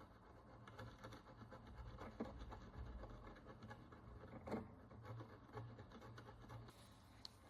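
Faint scratching and small ticks of a fine tool working the encrusted surface of a Roman bronze follis, with a couple of slightly louder ticks about two and four and a half seconds in.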